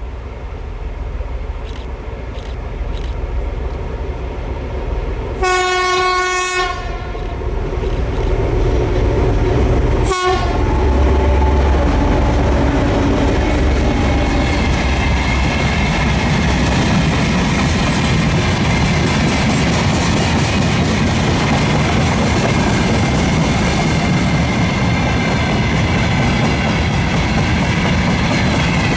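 2M62U twin-section diesel freight locomotive approaching, its two-stroke diesel engines running and growing louder, sounding its horn for just over a second about five seconds in. From about eleven seconds the locomotive is close by and the freight wagons roll past with steady wheel noise and clatter over the rail joints.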